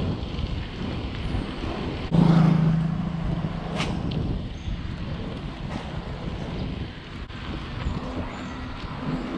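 Wind rushing over the microphone of a mountain biker's helmet or bike camera while riding, with a loud, low, steady tone lasting about a second that starts a couple of seconds in.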